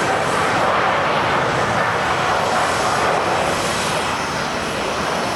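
Jet airliner's engines: a loud, steady rush that eases slightly toward the end.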